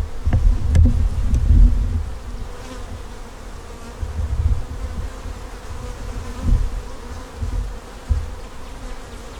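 Honeybees buzzing around an opened hive, a steady hum. Irregular low rumbles and a couple of sharp knocks in the first second come from the hive boxes being handled and shifted into place.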